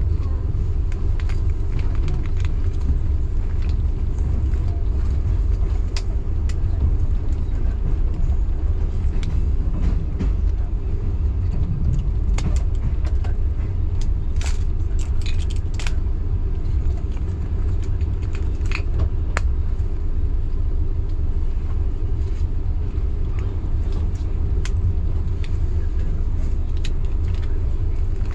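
Local passenger train running along the line, heard from on board: a steady low rumble with scattered clicks and rattles, thickest about halfway through.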